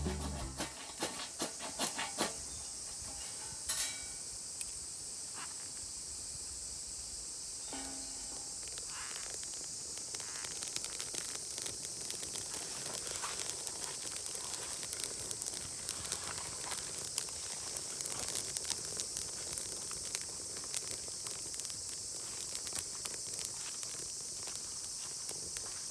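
Outdoor ambience: a steady high-pitched insect chorus, with scattered small clicks and crackles that grow more frequent from about ten seconds in.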